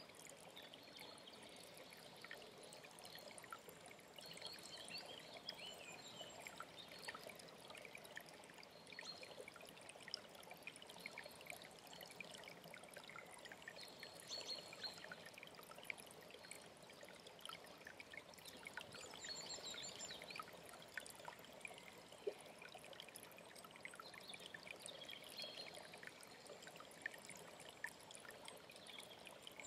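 Faint alpine stream trickling and babbling steadily, with songbirds repeatedly calling in short chirps and high, quick trills over it.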